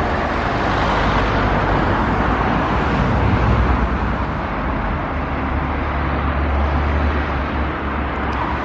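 Diesel passenger train moving past: a steady low engine drone under a broad rushing noise of the moving train.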